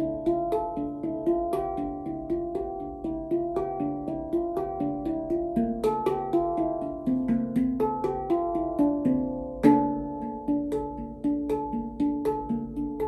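Stainless-steel D Kurd handpan, tuned to 432 Hz, played by hand in a flowing run of struck notes, several a second, each ringing on under the next. One stronger strike lands a little before ten seconds in.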